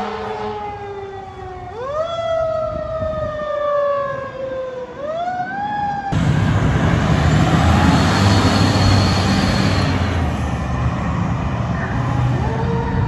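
Fire truck siren wailing, falling slowly in pitch and then quickly rising again twice. About six seconds in it gives way suddenly to the loud rumble of a heavy truck engine, and the siren wail rises again near the end.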